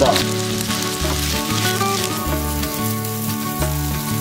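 Cauliflower florets and potato cubes sizzling steadily as they fry in oil in a frying pan, with the pan shaken to toss them near the end.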